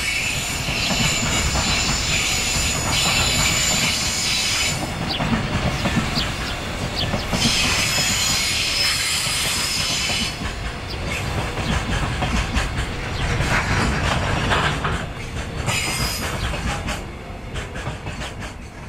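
Freight train of container wagons rolling past, wheels squealing in long high-pitched stretches over a steady low rumble. The squeal comes back a second time and once more briefly, and the sound fades away as the last wagons go by.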